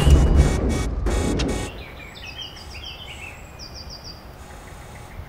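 Loud rumbling with rapid clicks that cuts off suddenly a second and a half in, leaving quiet outdoor ambience with birds chirping in short falling runs.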